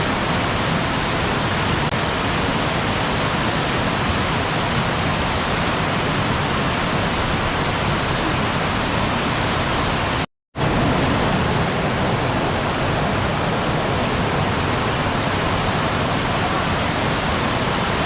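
Waterfall rushing steadily. About ten seconds in, the sound cuts out completely for a fraction of a second, then comes straight back at the same level.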